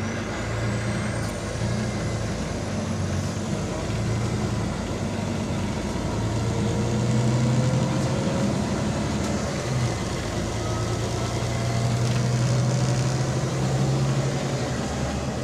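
Diesel engine of a Volvo B9TL double-decker bus running while the bus is under way, heard from on board over road noise. The engine note holds steady for a few seconds at a time, then drops and picks up again several times.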